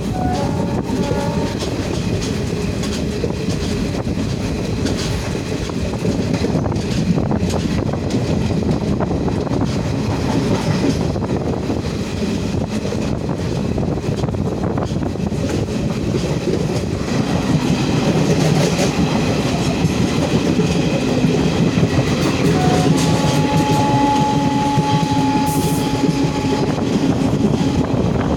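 Train running on the rails, wheels clattering over the joints in a steady rush of noise. About two-thirds of the way through, a long steady tone sounds for about three seconds.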